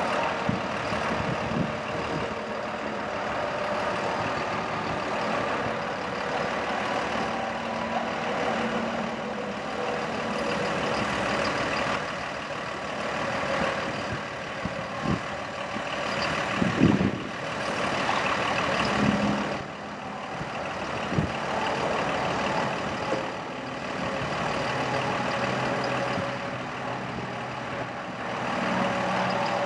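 Diesel engine of a 2005 Freightliner M2 bucket truck running steadily, powering the hydraulics of its Altec LRV55 boom as the boom is worked. A few clunks come midway, the loudest a little past the middle.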